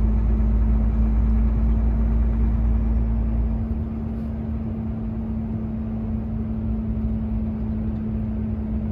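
Volvo truck heard from inside the cab while driving: a steady engine and road hum with one steady tone. The deep low rumble drops away about three and a half seconds in.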